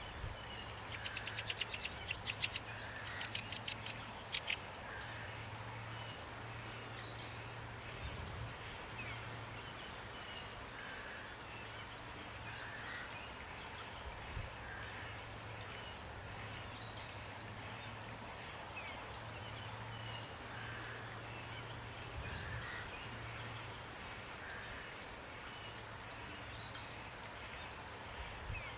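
Rain falling as a steady hiss while several songbirds keep up short, high-pitched chirps. A fast rattling trill sounds for a few seconds near the start.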